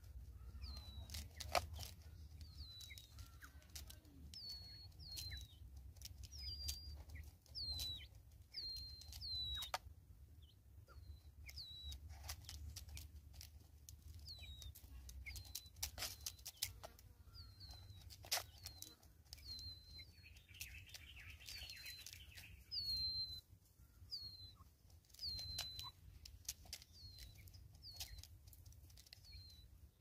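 A bird peeping: short high chirps, each ending in a quick downward slide, about one every second or two. Under them, sharp taps of beaks pecking seed from a plastic bottle feeder, with a short rustle about two-thirds of the way in.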